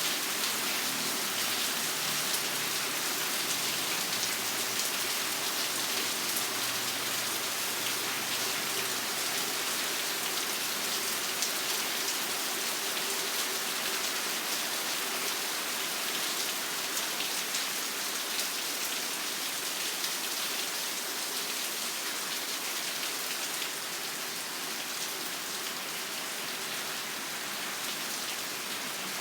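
Steady rain falling, a dense hiss with fine scattered drop ticks. It starts suddenly and eases slightly about three-quarters of the way through.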